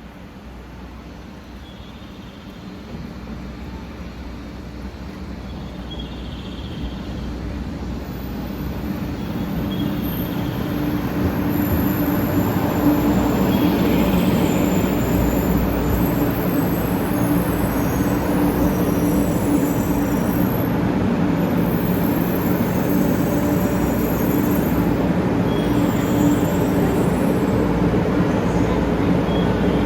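Eight-car Shinkansen train pulling into the platform, its rumble growing louder over about ten seconds and then holding, with high-pitched brake squeal from about eight seconds in as it slows to a stop.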